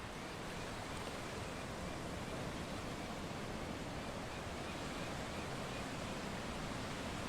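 Steady rushing water ambience, an even unbroken wash of noise with no distinct events.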